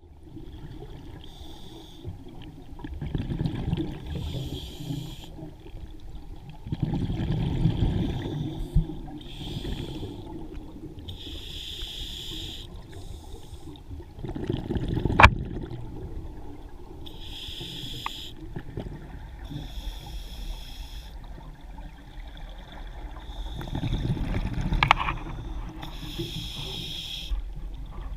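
Underwater recording of a scuba diver breathing through a regulator: a short hiss of each inhalation every two to three seconds, with rough bubbling rumbles of the exhaled air between some breaths.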